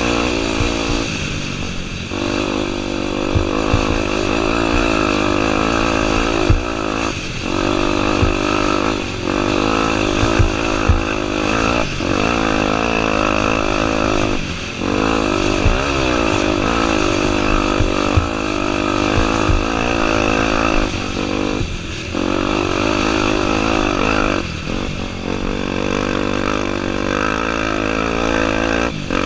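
Honda Tornado 250's single-cylinder four-stroke engine revving up and down under way, with the throttle chopped briefly every few seconds between pulls. Scattered sharp knocks come through the engine sound.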